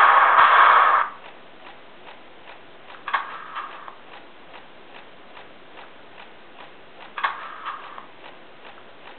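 Model FS E.656 electric locomotive with a sound decoder: a loud hiss cuts off about a second in, then a steady, even ticking about two and a half times a second, broken twice by a brief louder clank with a short ringing tone.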